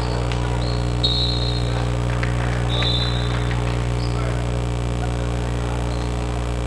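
Steady electrical mains hum on a VHS tape transfer, with two short high squeaks about one and three seconds in, typical of sneakers on a gym floor.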